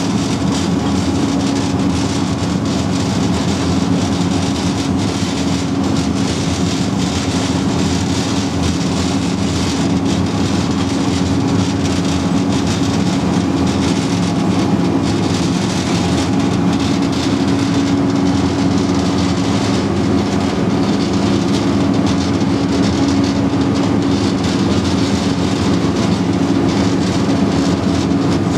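Engine of a Type 94 amphibious mine-laying vehicle running steadily under way, a constant loud drone with a low hum at one pitch and a rushing noise over it.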